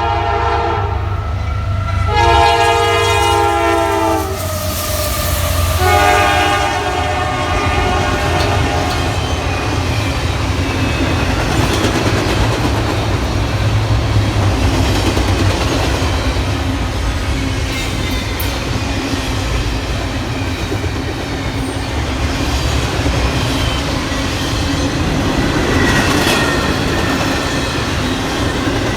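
Diesel locomotive horn sounding a multi-tone chord in three blasts, the last one short, followed by the steady rumble and rail clatter of the train rolling past.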